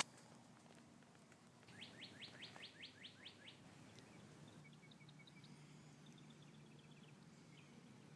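Faint bird chirping: a quick run of about nine sharp chirps about two seconds in, then fainter short chirps in small groups.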